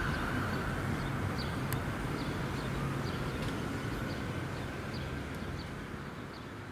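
Fire engine's motor and road noise fading as the truck drives off, with a small bird chirping repeatedly in short high notes.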